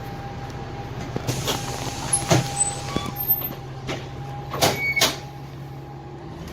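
Dennis Trident double-decker bus's Cummins ISMe diesel engine running steadily, heard from inside the lower deck, with several sharp clunks and clicks, the loudest two close together near the end.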